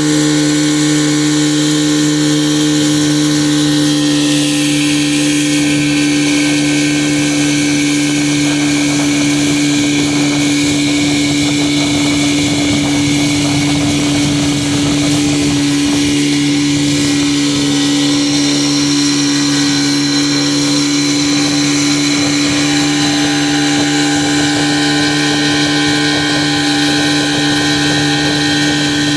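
Motorboat engine running at a steady speed, its note holding steady with a slight drop in pitch about four seconds in.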